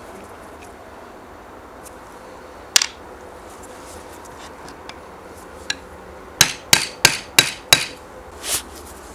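Hammer blows on a workpiece: one sharp strike, then a quick run of five strikes at about three a second, followed by a softer, slightly longer knock near the end.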